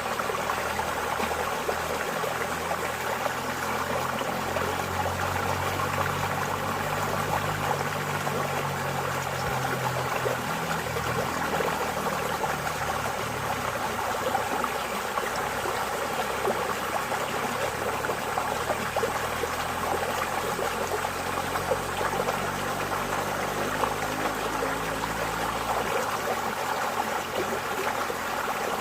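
Water flowing steadily in a stream, an even splashing trickle with a low, wavering rumble underneath.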